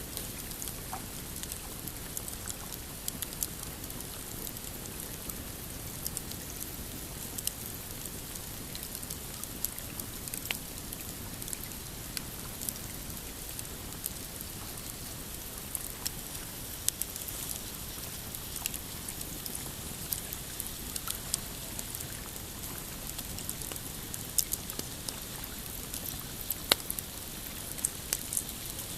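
Pine campfire crackling, with frequent sharp irregular pops and snaps over a steady low wash of waves lapping on a rocky shore.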